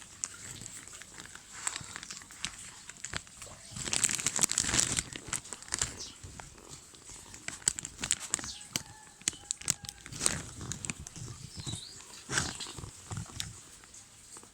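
Rustling and crinkling with many scattered sharp clicks, loudest in a burst about four seconds in.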